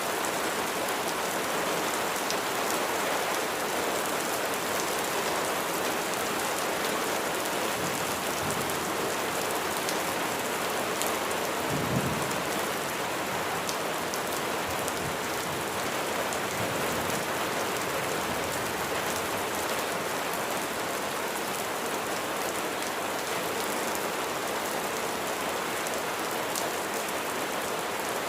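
Steady heavy rain falling on surfaces, with scattered sharp drop ticks. A brief low rumble of distant thunder comes about halfway through.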